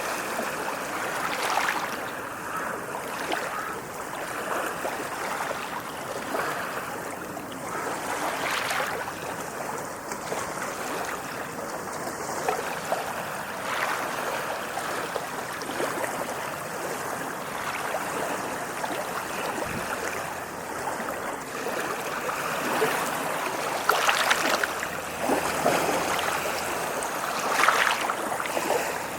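Ocean waves washing on a shore: a steady rush of surf with a few sharper splashes, the loudest near the end.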